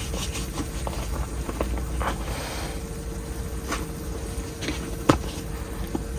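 Scattered small clicks and knocks of things being handled, over a steady low hum, with one sharper knock about five seconds in.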